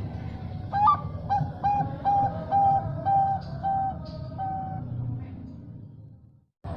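Bangkok-type zebra dove (perkutut) cooing. A sharp rising opening note comes about a second in, then a run of about seven short, even coos at roughly two a second.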